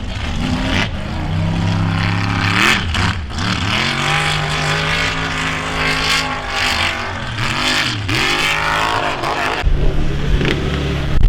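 A vehicle engine revving, its pitch climbing and dropping several times, with a louder low rumble setting in near the end.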